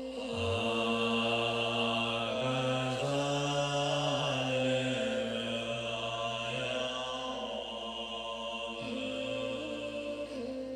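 A man's deep voice chanting a mantra in long held notes, stepping between a few low pitches every second or two, over a steady droning tone.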